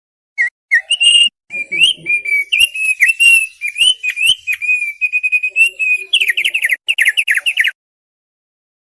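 Thick-billed white-eye (opior paruh tebal) singing a long, fast string of chirps and whistled notes, ending in a quick series of downward-sweeping notes before stopping abruptly.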